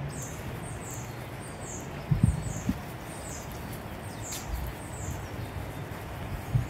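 A small songbird calling a series of short, high, down-slurred chirps, roughly one or two a second, with a couple of brief low thumps about two seconds in.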